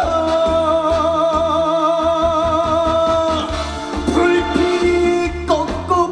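Live trot song: a male singer holds one long note with a wide vibrato for about three seconds, then starts a new phrase about four seconds in, over a backing band with a steady bass and drum beat.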